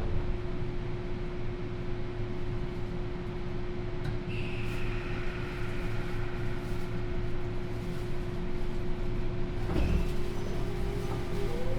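Sotetsu New 7000 series electric train standing with a steady equipment hum, and a single knock about ten seconds in. Right at the end its Hitachi GTO inverter starts a rising whine as the train begins to pull away.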